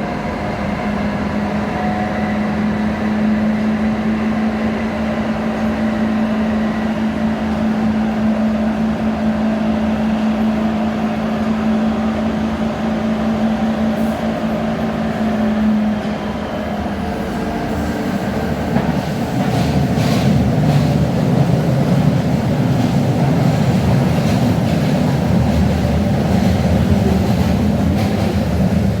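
Ansaldo Breda light-metro car of the Ankaray, built 1996, running on the rails. A steady low tone sounds over the running noise through the first half and stops about halfway; the wheel-and-rail noise then grows louder, with a few clacks.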